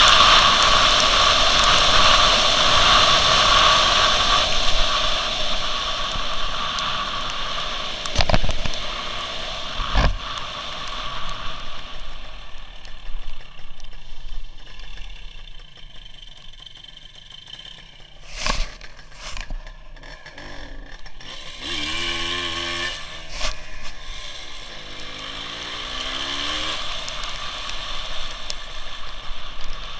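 WSK 175's two-stroke single-cylinder engine and wind noise heard from an onboard camera. The loud riding noise fades after about ten seconds as the bike slows, with a few sharp knocks. Later the engine's pitch rises and falls a few times.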